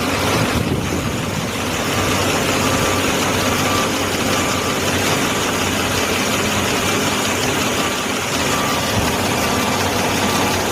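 Mercedes-Benz GLC300 engine idling steadily, with the valve knocking noise that marks a valvetrain fault.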